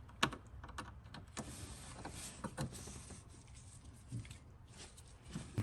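A cover being worked off in a Lexus GX 460 engine bay: a series of sharp clicks and knocks, about half a dozen, with faint handling noise in between.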